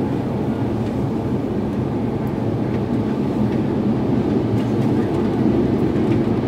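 Steady low rumble of an Airbus A350-900 airliner's cabin in flight, engines and airflow, during the descent before landing. It swells slightly toward the end.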